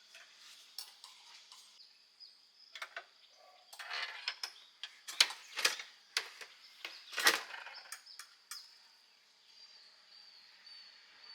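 A run of sharp clicks and knocks, loudest and most frequent between about four and eight seconds in, over a faint steady high-pitched hum.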